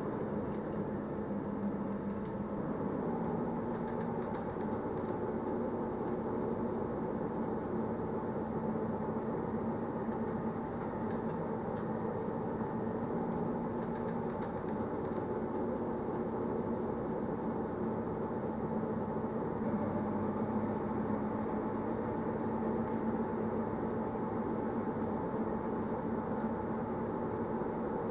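Electric train of the Interlaken–Grindelwald line running steadily: a constant hum over an even rolling noise.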